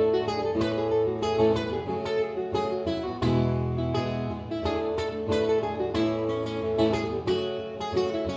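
Acoustic guitar played solo: picked and strummed notes over ringing bass notes, an instrumental passage with no singing.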